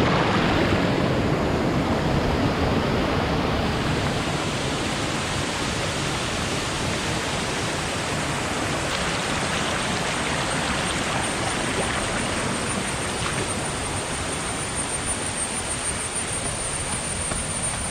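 Waterfall and stream water rushing, a steady loud rush of noise.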